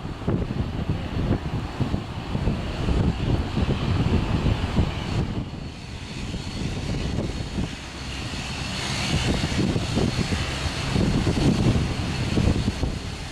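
Airliner engines running as an aircraft taxis past, a steady high whine with a hiss that swells about two thirds of the way through. Wind buffets the microphone with a gusty low rumble.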